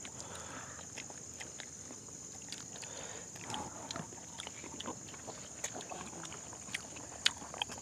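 People eating with their hands and chewing with their mouths open: a scatter of small wet smacks and clicks that come more often toward the end, with one sharper smack near the end. A steady high-pitched hiss runs underneath.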